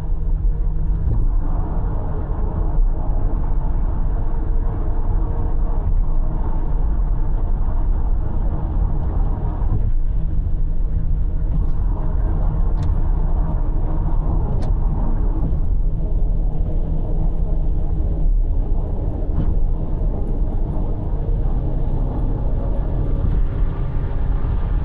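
A car being driven at a steady pace, heard from inside: steady engine hum and tyre rumble on the road.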